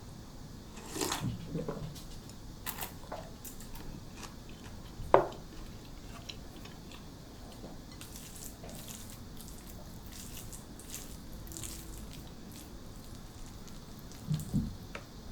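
Close-miked eating sounds: chewing and crunching food, with scattered sharp clicks of utensils against a dish, the loudest about five seconds in, and a soft thump near the end.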